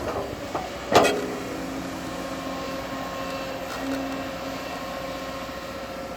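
Bulldozer's diesel engine running steadily, with one loud metallic clank about a second in.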